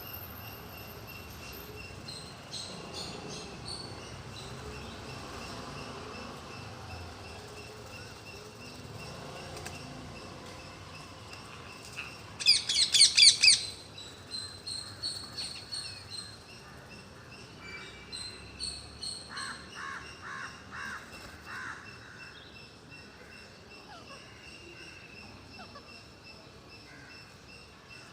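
A flock of parrots calling and chattering, many high, repeated chirps overlapping, with one loud burst of rapid, shrill squawks about halfway through.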